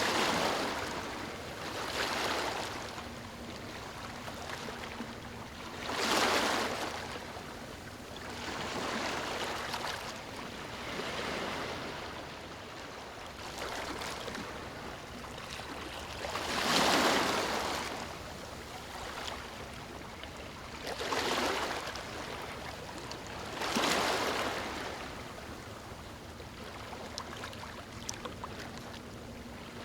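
Small waves lapping and breaking gently on a beach, each wash swelling and fading every few seconds, with the strongest near the middle, over a steady hiss of water.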